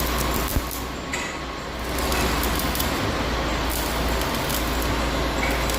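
Electric arc welding of steel plates for a bearing-puller frame: a steady sizzling hiss over a low hum, with one sharp click about half a second in.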